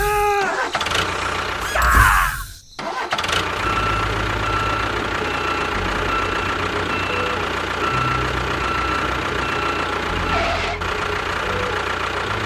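An engine starting up and then running steadily. A loud burst and a brief drop-out come about two to three seconds in, before the even running settles in.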